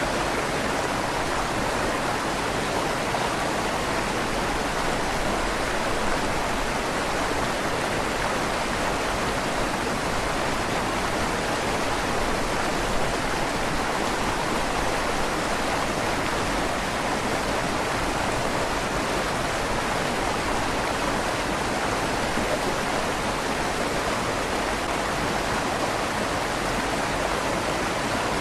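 River water flowing steadily beneath a stone bridge, a continuous even rush with a slight echo off the inside of the stone tunnel.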